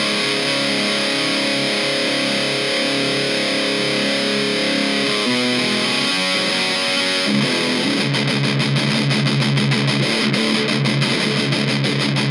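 Electric guitar (Epiphone Les Paul Special VE) played through a Kokko KH8 High Gain Distortion pedal with the gain knob turned all the way up: heavily distorted held chords, then a fast chugging riff from about eight seconds in.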